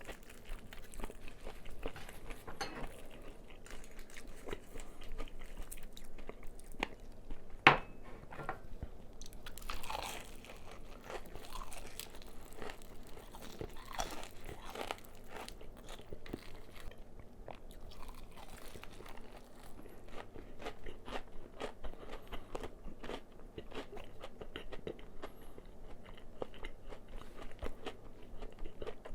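Close-miked crunching and chewing of crispy fried chicken: a steady stream of small crackles from the fried crust. One sharp click, the loudest sound, comes about eight seconds in.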